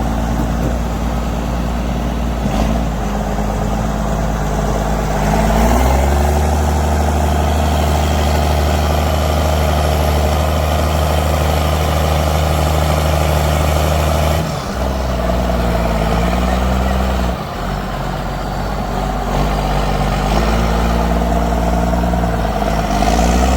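Off-road 4x4 vehicle engine running at changing speeds: the revs step up about a quarter of the way in and hold steady, drop past the middle, then rise again near the end.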